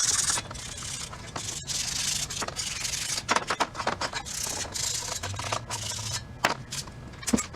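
Irregular rubbing and scraping strokes, with a few sharp clicks near the end.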